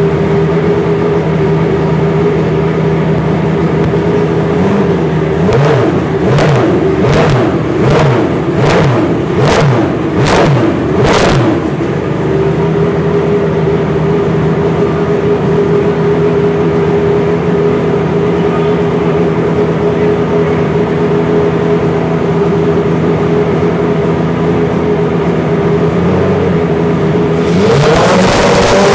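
Benetton Formula 1 car's racing engine idling, blipped sharply about six times in quick succession, each rev rising and dropping straight back. It settles into a steady idle, then is revved up once more near the end.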